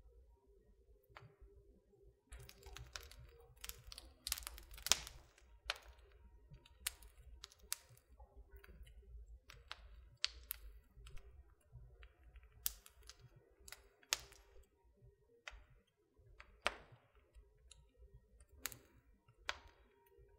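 Wood fire crackling in a fireplace: irregular snaps and pops of burning wood, with a quick cluster of louder pops about four to five seconds in.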